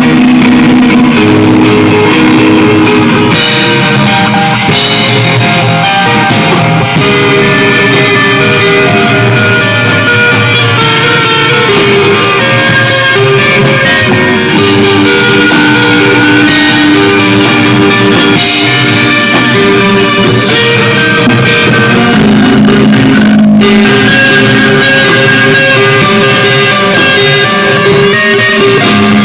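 Rock band playing live and loud, with guitars over a drum kit, in a passage without vocals.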